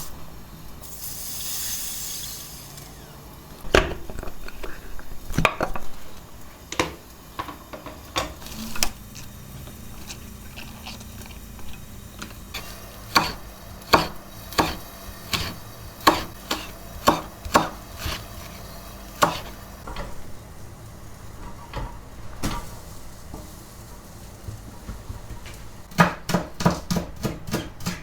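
Kitchen utensils and dishes clinking and knocking, a string of separate sharp knocks. A faint steady hum comes in about a third of the way through. Near the end comes a quick, even run of taps, about four or five a second.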